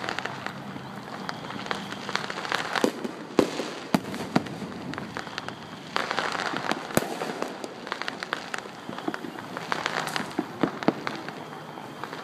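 Aerial fireworks display: sharp bangs of bursting shells at irregular intervals over a continuous crackling.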